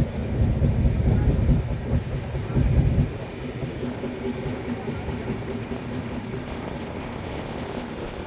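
Running noise of a moving express train heard from on board: a low rumble and rattle with a faint steady hum. The rumble is loud for about the first three seconds, then drops to a quieter, even run.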